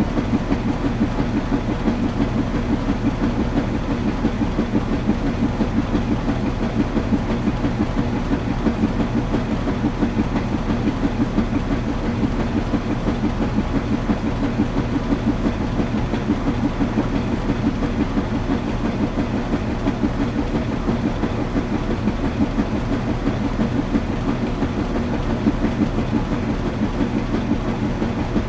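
Washing machine running: a steady low rumble with a fast, even flutter.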